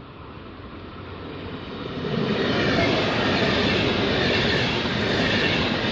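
Frecciabianca electric tilting train passing through a station at speed. The rumble of wheels on rail grows over the first two seconds, then stays loud and steady as the carriages run past.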